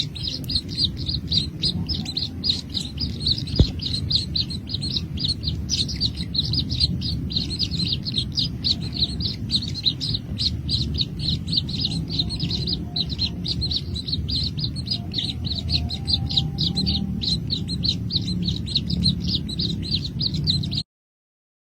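Baby birds chirping in a fast, unbroken run of short high-pitched calls, several a second, over a low rumble. There is one sharp click early on, and the chirping cuts off suddenly near the end.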